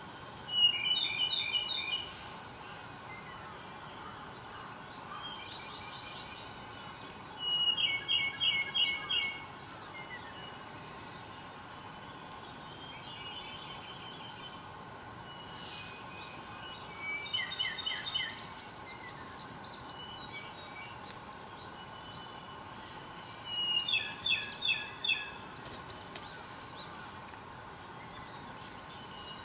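A songbird singing a short phrase of about five quickly repeated notes, four times, roughly every six to nine seconds, while other birds chirp faintly and high in the background.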